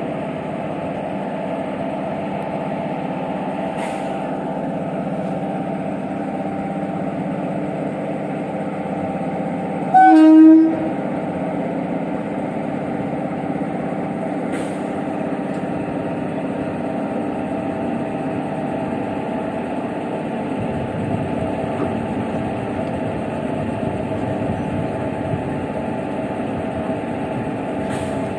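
Railway locomotive running with a steady hum at a standstill, and about ten seconds in one short, loud blast of its horn.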